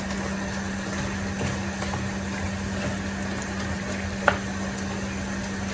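Chicken and carrots sizzling in a frying pan, over a steady low hum, with one sharp clink about four seconds in.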